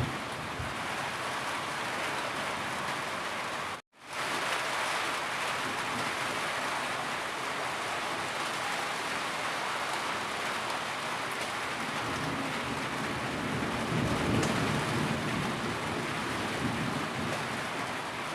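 Steady heavy rainfall, an even hiss of falling rain. It cuts out to silence for a split second about four seconds in, then resumes. In the second half it swells with a deeper rumbling for a few seconds.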